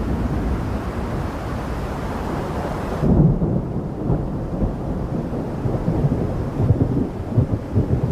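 Thunder rumbling in a rainstorm, with rain hiss in the first few seconds. About three seconds in the sound changes abruptly to a deeper, uneven low rumble.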